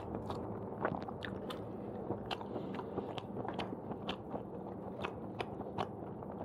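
Close-miked chewing of fried udon noodles, with brief wet mouth clicks and smacks coming irregularly a few times a second.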